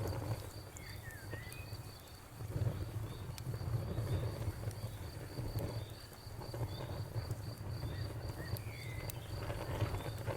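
Campfire with scattered crackles and pops over a low rumble that swells and fades, while a cricket chirps in a rapid, even pulse throughout.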